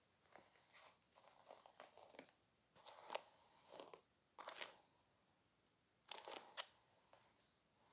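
Close-miked hair being played with: soft crackling, crunchy rustles in irregular bursts, as fingers scrunch and run through the hair.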